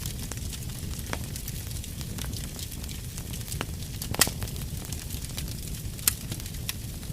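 Fire burning in a fireplace: a steady low rumble of flames with scattered sharp crackles and pops, the loudest about four seconds in and again about six seconds in.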